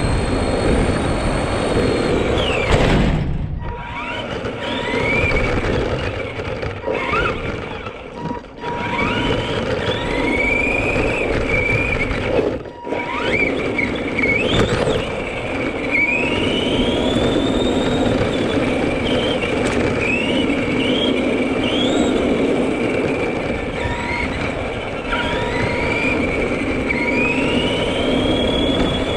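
Radio-controlled Granite 4x4 monster truck driving, its electric motor whining and rising in pitch again and again as it speeds up, over a steady rushing noise. The sound drops out briefly twice, about three seconds in and near the middle.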